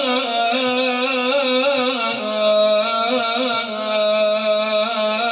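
Sufi madih (Islamic praise song): a man's voice drawing out one long ornamented phrase without words, the pitch bending and wavering over a steady lower note.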